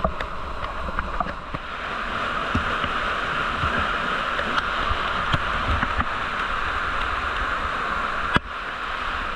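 Rushing river water tumbling over rocks in a steady rush, with a few small knocks. It thickens about two seconds in, and near the end there is a sharp knock and the rush cuts suddenly to a quieter one.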